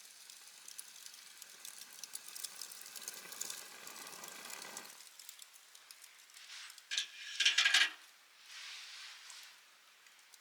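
Food sizzling on a grill over a campfire, with fine crackles. A louder short rushing hiss comes about seven seconds in.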